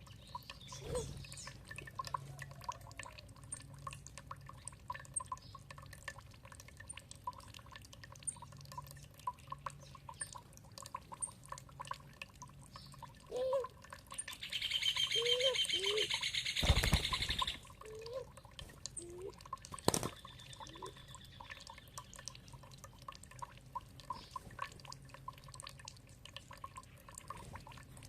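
Water dripping and trickling with birds calling. About halfway through, a loud, harsh, rapidly repeated bird call lasts about three seconds, along with a few short, low calls.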